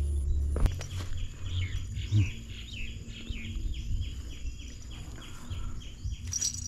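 A bird calling over and over, a quick run of short falling chirps about three a second. A single sharp click comes about half a second in.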